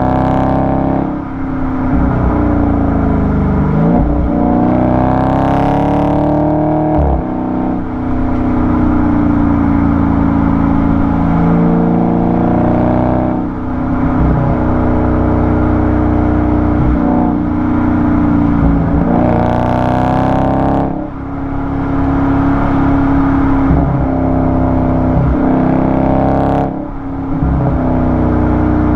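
Exhaust of a Dodge Charger 392's 6.4-litre HEMI V8, recorded at the tailpipe while driving. The revs climb and fall in pitch over and over, with a brief dip in loudness every five to eight seconds.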